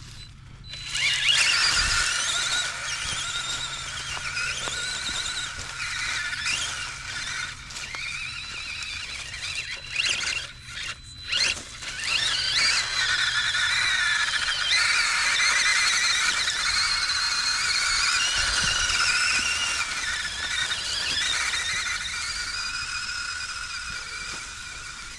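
FMS K5 Blazer RC crawler's electric motor and two-speed gearbox whining, the pitch rising and falling with the throttle. The whine cuts out briefly twice about ten seconds in, then runs steadily and fades near the end.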